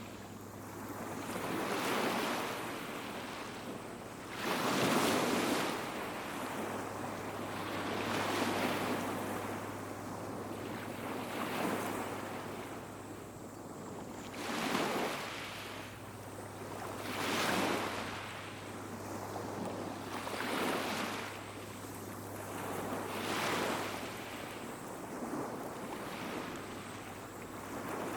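Small waves breaking and washing up the beach, one swell about every three seconds, each rising and falling away. A steady low hum runs beneath.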